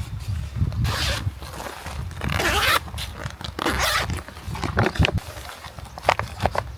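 Camping gear being handled: three short rasping zipper pulls, each about half a second long, with rustling between them and a few light knocks near the end.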